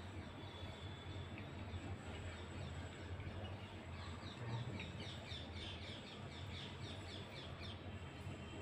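Birds chirping: a quick run of short, high calls, several a second, starting about halfway through, over a steady low hum.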